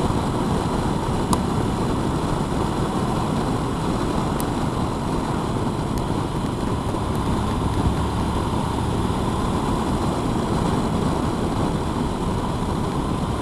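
Motorcycle riding along at a steady speed: engine running under wind rush, with no change in pace.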